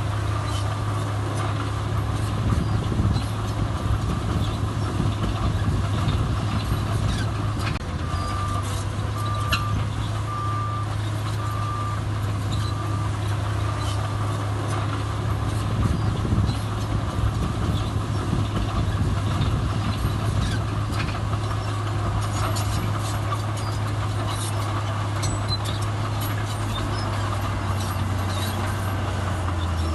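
Heavy diesel earthmoving machinery running steadily at a soil-fill site. A reversing alarm beeps about once a second for several seconds, about a third of the way in, over scattered small knocks.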